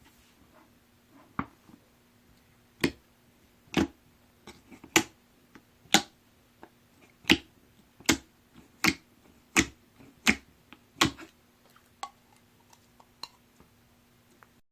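Strawberry-milk pudding slime being played with by hand, giving sharp popping clicks about once a second, loudest in the middle of the stretch.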